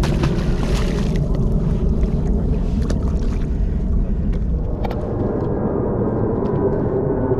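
A boat's motor running steadily, with a brief rush of higher noise in the first second or so.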